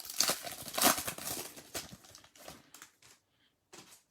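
Foil wrappers of Topps Chrome baseball card packs being torn open and crinkled: a dense rustle for about two seconds that thins to short scattered crackles.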